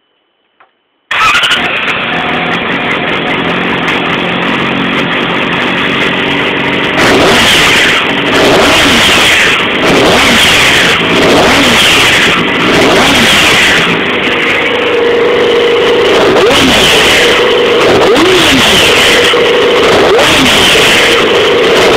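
2007 Yamaha YZF-R6's inline-four engine starting suddenly about a second in and running at idle. From about seven seconds it is revved in a string of throttle blips, then held at raised revs with short rises and falls.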